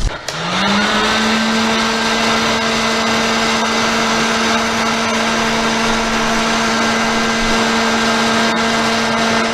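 A motor spins up, its hum rising in pitch over the first second, then runs at a steady speed with a rushing, whirring noise.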